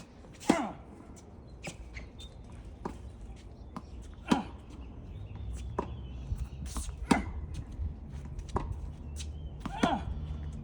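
Tennis rally: sharp racket strikes on the ball about every three seconds, with fainter ball bounces between them, over a low wind rumble on the microphone that grows stronger about halfway through.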